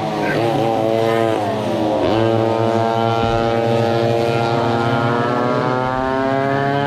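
Small two-stroke go-kart engines running: one engine's pitch falls, dips sharply about two seconds in, then climbs steadily as it accelerates, over a steady lower engine drone.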